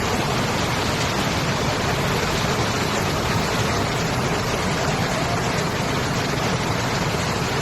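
Fast-flowing floodwater rushing in a steady, unbroken noise.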